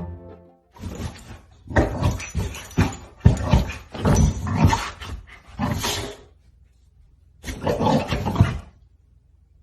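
A dog growling and barking in a string of rough bursts. One more burst follows a short pause near the end.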